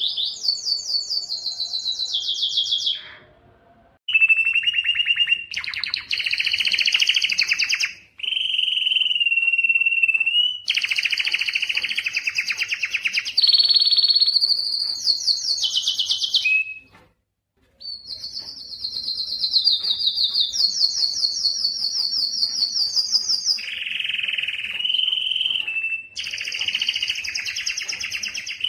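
Spanish timbrado canary singing a long song of fast rolling trills and held whistled tones, phrase after phrase, with two brief pauses.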